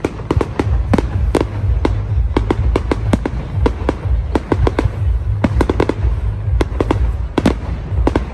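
Fireworks display going off: a rapid, irregular run of sharp bangs and cracks, several a second, over a steady low rumble.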